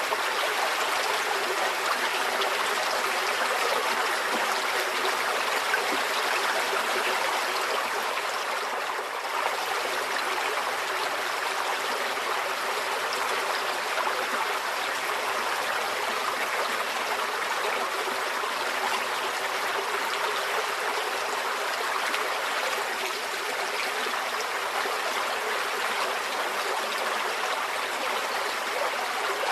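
A shallow forest stream flowing steadily, its water rushing and trickling in an even wash.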